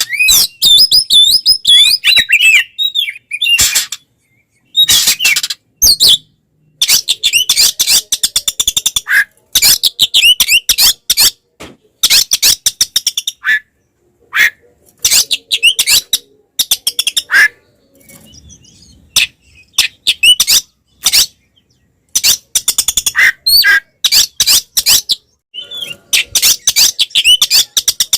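Oriental magpie-robin (kacer) singing its agitated fighting song: bursts of rapid, rattling chatter mixed with quick looping whistled phrases, broken by short pauses.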